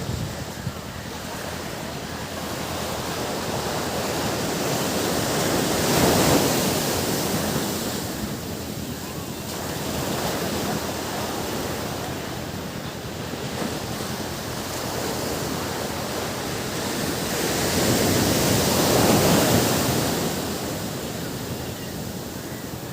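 Ocean waves breaking on a beach: a steady wash of surf that swells twice, with the loudest breakers about 6 and 19 seconds in.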